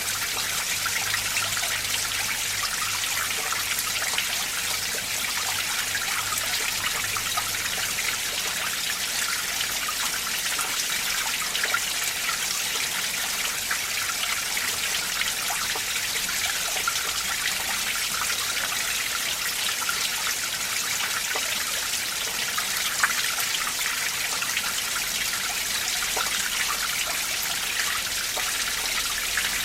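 Winter mountain stream water flowing and trickling over rocks: a steady rushing with small splashes.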